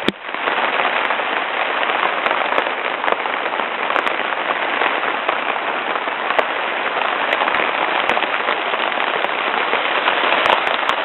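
Rain falling steadily: a dense hiss of drops with scattered sharper taps.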